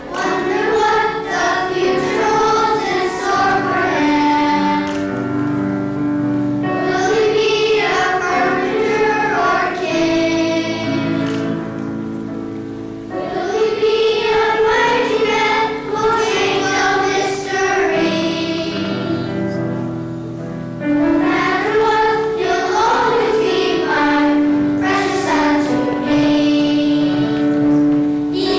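A children's choir sings a Christmas song about the Nativity over a sustained accompaniment. The singing eases off briefly between phrases, a few times.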